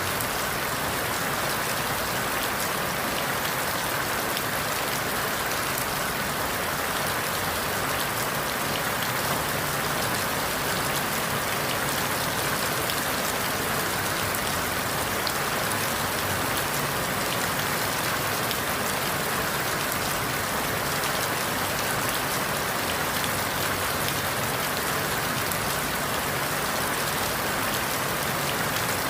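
Steady rain falling on forest leaves: an even hiss with countless small drop ticks, unchanging throughout.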